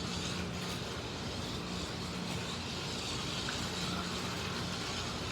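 Electric slot cars lapping the track: small motors whirring steadily, with a low hum that drops out and comes back every second or so as the cars brake and accelerate through the corners.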